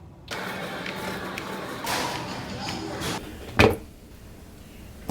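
A noisy hiss, then a sharp knock about three and a half seconds in.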